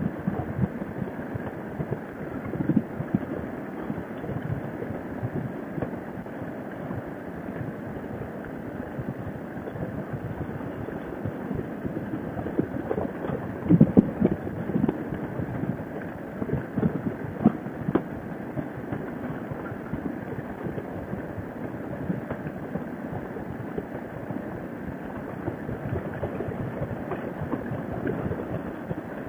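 Wind buffeting a helmet-mounted microphone on a motorcycle at road speed: a steady rush with irregular gusts, the loudest about fourteen seconds in.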